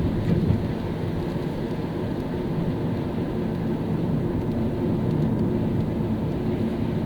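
Car driving on a rain-wet city road: a steady low rumble of engine and tyre noise, with a small knock about half a second in.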